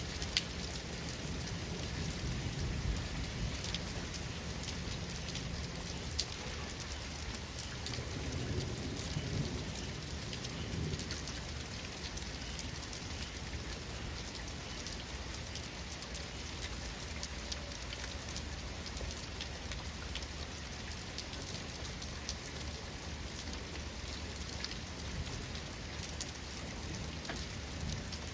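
Steady rain falling, with fine drop ticks, and a low rolling rumble of thunder through the first ten seconds or so that dies away.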